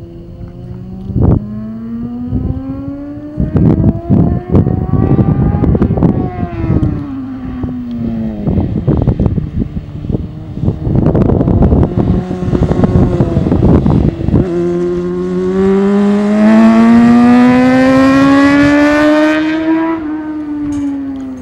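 Honda CBR600RR inline-four engine on track, revs climbing and then dropping at each shift or roll-off, with heavy wind buffeting on the microphone. Later comes one long clean pull to high revs, and near the end the revs fall as the bike slows.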